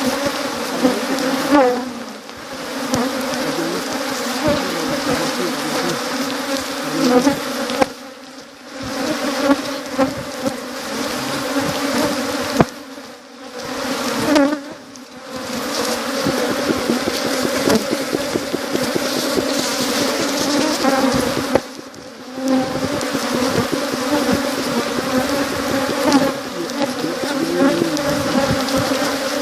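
A dense, loud buzzing of many honeybees around an opened hive, a steady hum that dips briefly a few times.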